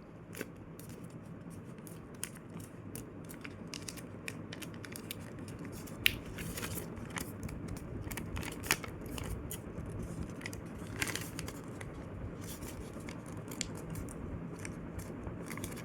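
A sheet of paper being folded and creased by hand: scattered crisp crackles, rustles and ticks as the paper is bent and pressed flat.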